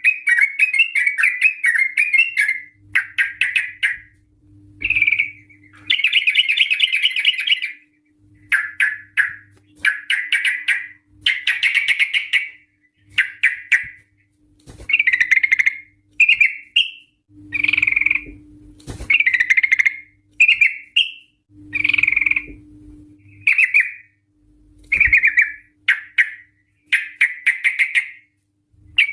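Yellow-vented bulbul (trucukan) singing its lively, bubbly chattering song in a long run of short phrases, each about a second or two with brief pauses between. A faint steady hum runs underneath.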